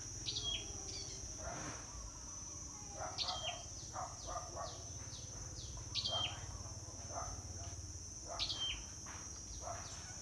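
A bird repeating a short whistled call that falls in pitch in a step, about every three seconds, with softer falling chirps between, over a steady high-pitched insect drone.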